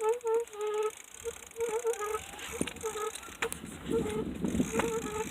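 A bicycle being ridden, squeaking in short repeated pitched squeaks, with scattered rattling clicks and a low rumble joining about a second in. These are the weird noises the rider says her bike makes.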